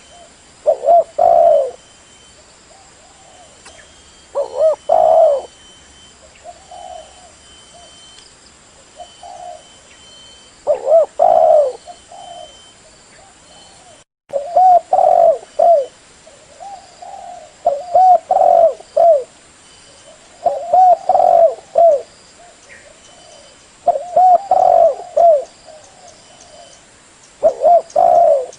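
Spotted dove (tekukur) cooing: short cooing phrases repeated about every three seconds, with a brief gap near the middle.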